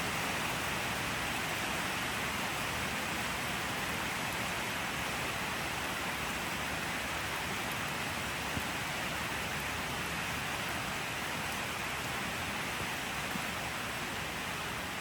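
Steady rain, an even hiss of falling drops with a few faint drop ticks.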